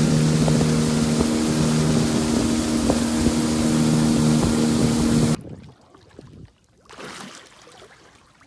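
Motorboat engine running steadily at speed, a low even drone with wind rushing over the microphone, cutting off suddenly about five seconds in; then a quiet background.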